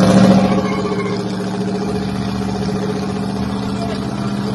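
Truck engine revving up, then running at a steady, loud drone.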